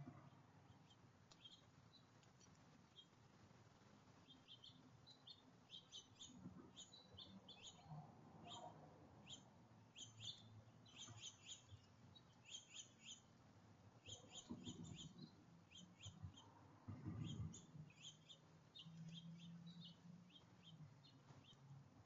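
Faint, rapid chirping of small birds at a backyard feeder, short high calls in quick clusters. Two brief low rumbles sound about two-thirds of the way through.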